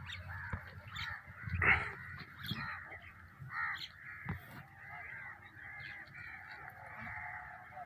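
A flock of mixed birds calling over one another, crows cawing among them, with many short harsh calls overlapping; one loud call stands out nearly two seconds in.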